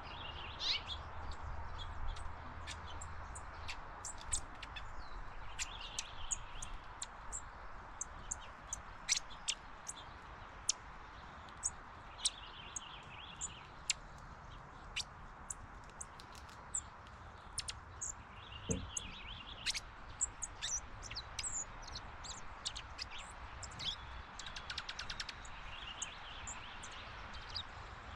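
Birds chirping: many short, sharp chips scattered throughout, with a few brief twittering bursts, over a steady background hiss.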